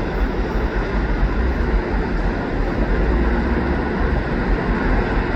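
Long Via Rail LRC passenger train passing close by, a steady rumble and rolling noise of the cars on the rails, with no horn or sharp events.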